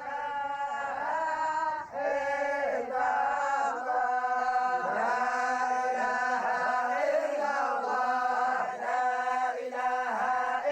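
A group of voices chanting a Sufi dhikr in unison, drawing out long held notes that slide from one pitch to the next.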